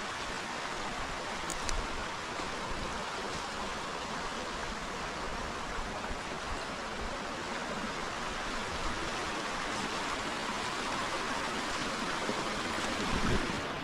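River water flowing and rushing steadily, with a few faint clicks and a brief low thump near the end.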